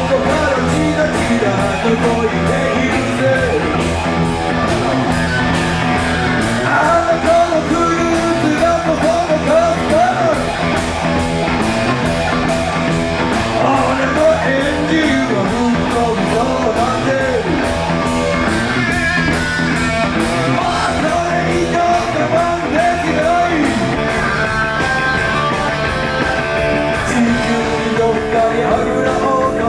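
Live blues-rock band playing an instrumental break: a lead electric guitar with bending notes over bass and a steady drum beat.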